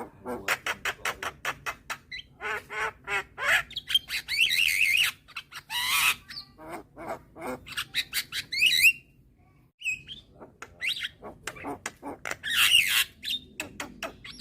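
Young Javan myna calling: rapid runs of clicking notes, harsh squawks and rising whistled notes, with a brief pause about nine seconds in.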